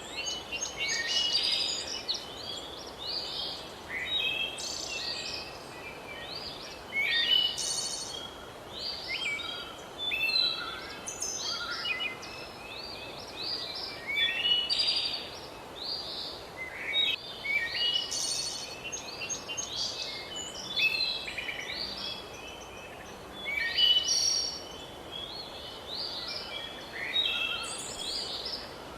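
Several songbirds singing at once, a dense chorus of overlapping chirps, short trills and whistled phrases, over a faint steady background hiss.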